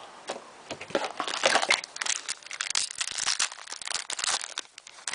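Foil wrapper of a hockey trading-card pack crinkling as the pack is handled and opened, with the cards sliding and clicking against each other. The crackling starts about a third of a second in and dies down near the end.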